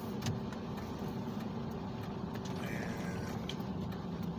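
Car engine and tyres running steadily while driving on snowy roads, heard from inside the cabin, with faint light ticks over the top.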